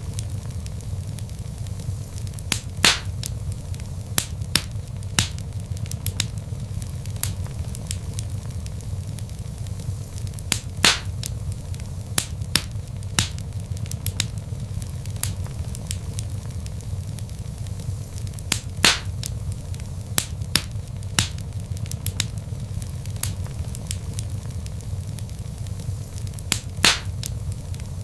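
Wood fire in a fireplace crackling: a steady low rumble of burning logs under frequent sharp crackles, with a few louder pops every several seconds.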